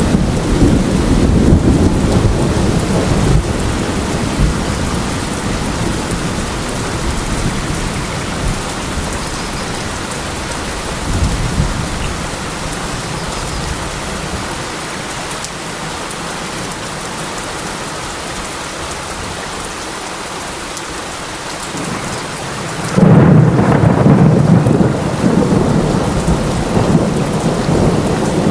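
Steady rain with thunder: a deep rumble dies away over the first few seconds, a smaller one swells briefly near the middle, and a loud clap of thunder breaks suddenly about 23 seconds in and keeps rumbling.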